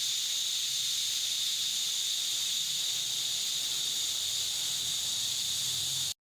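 A steady high-pitched hiss of air or spray that cuts off abruptly near the end.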